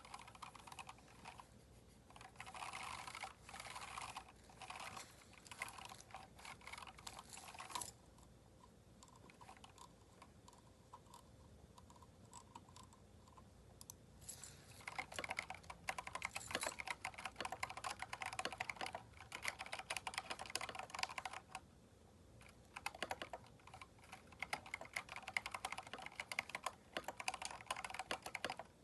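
Typing on a Keychron K4 mechanical keyboard fitted with aftermarket keycaps: runs of quick keystroke clicks, with a pause of about six seconds partway through and a short lull near the end.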